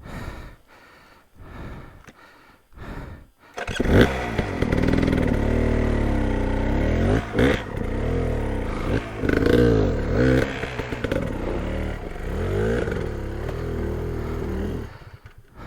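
Dirt bike engine coming in about three and a half seconds in, then revving up and down in repeated throttle blips, as a rider works the bike over rocks at low speed. The engine cuts out near the end.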